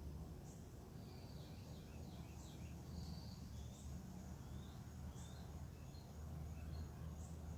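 Several birds chirping and calling in short, varied notes, over a steady low rumble.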